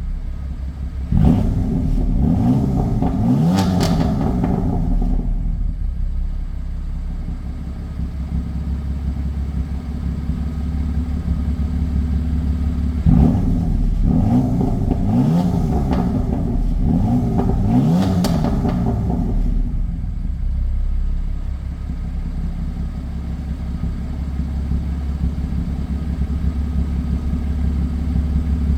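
BMW M4 Convertible Competition's S55 twin-turbo inline-six idling through its stock M Sport exhaust, blipped up to about 3,000 rpm in a series of revs about a second in and again near the middle, settling back to idle between and after.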